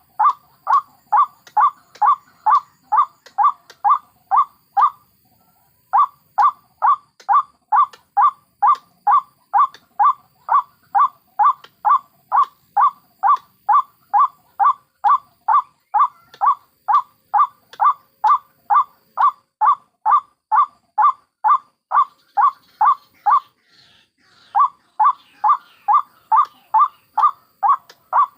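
White-breasted waterhen calling: a fast, even run of the same short note, about three a second, broken by brief pauses about five seconds in and near the end, with fainter higher chatter during the second pause. This is a looped lure recording of adult and young waterhens, used to call in the birds.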